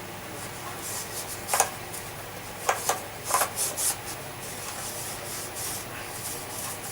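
Hand rubbing and scraping caked-on dirt off the parts of a 1973 Hoover Junior vacuum cleaner, with a few short sharp scrapes about one and a half, three and three and a half seconds in over a low steady hiss.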